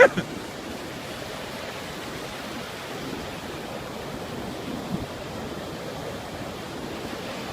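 Ocean surf washing up the beach: a steady, even rush of water.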